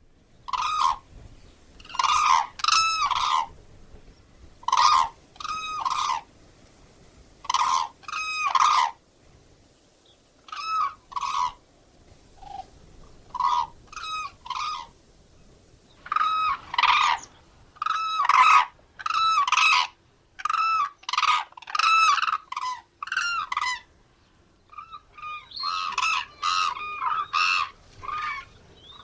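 Common cranes calling: loud, ringing pitched calls in short groups of one to three with pauses between, coming thicker and faster in the second half.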